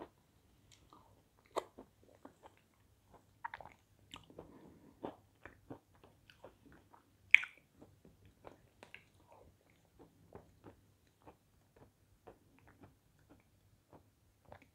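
Close-miked chewing and mouth sounds: irregular wet smacks and small clicks as a spoonful of thick sweet paste is eaten, with one sharper click about seven seconds in.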